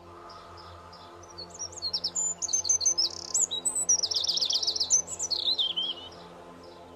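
A songbird sings a long, varied phrase of high, quick chirps and trills, starting about a second and a half in and ending about six seconds in. Soft, steady background music plays underneath.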